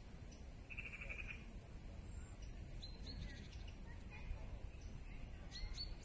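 Songbirds chirping: a short rapid trill about a second in, then several brief high chirps around the middle and again near the end, over a steady low rumble.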